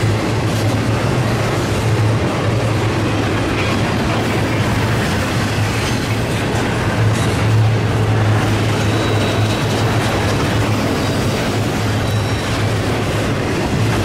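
Intermodal freight train cars rolling steadily past close by: a continuous rumble of steel wheels on the rails, with faint high wheel squeal in the second half.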